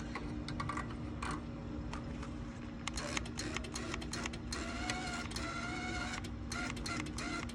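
Dodge Charger with a straight-piped exhaust running at low speed, heard from inside the cabin: a steady low drone with scattered clicks and rattles, and a brief whine about five seconds in.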